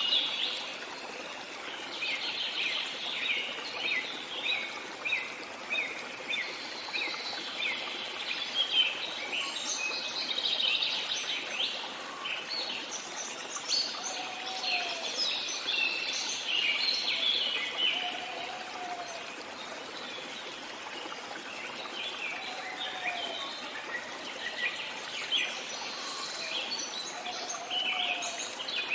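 A chorus of many songbirds chirping and singing at once, over a steady rush of flowing water. In the second half a lower, short call repeats about every four seconds.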